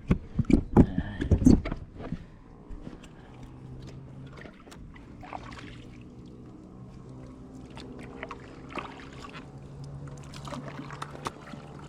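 Canoe being paddled: several loud knocks and thumps of the paddle against the hull in the first two seconds, then quieter paddle strokes and small clicks in the water. A faint low hum runs behind from a few seconds in.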